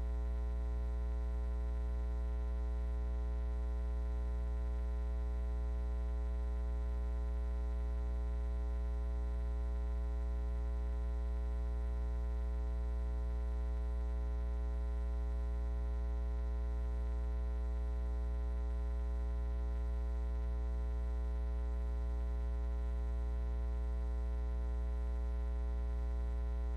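Steady electrical mains hum at 60 Hz with a long stack of evenly spaced overtones, unchanging throughout.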